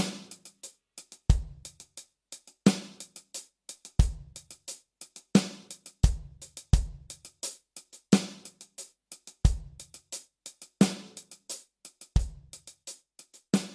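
Drum kit playing a slow ballad groove: the hi-hat plays a figure of an eighth note and two sixteenths, with a bass drum on beat one and a snare on beat three. The pattern repeats about every 2.7 seconds.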